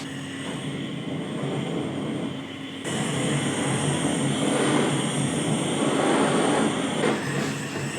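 Paint spraying: a steady high hiss switches on about three seconds in and eases off near the end, over a steady low hum.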